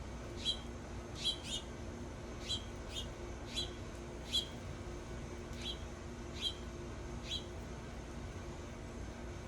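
A songbird giving short, sharp chip calls, each a quick falling note, roughly one to two a second, stopping near the end. A faint steady low hum runs underneath.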